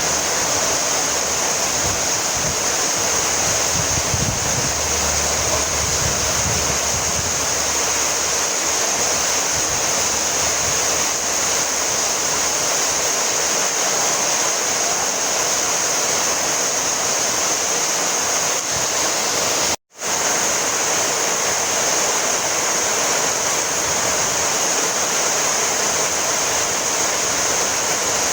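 Heavy rain falling steadily, an even hiss. About two-thirds through, the sound cuts out for an instant and resumes.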